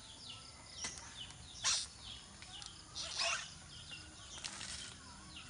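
Small birds chirping, a steady string of short, falling chirps. Twice, a brief rustle stands out above them, the loudest sounds here.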